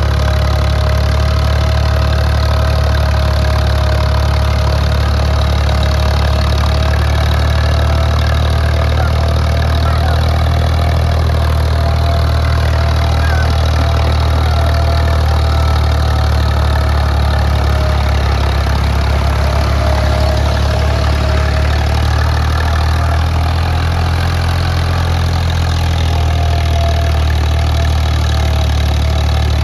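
Ford 3610 tractor's three-cylinder diesel engine running steadily and loudly under a heavy trailer load, with a slight change in its note about two-thirds of the way through.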